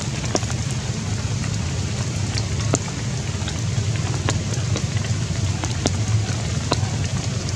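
Steady rain falling, with scattered sharp drops ticking through a constant low rumble.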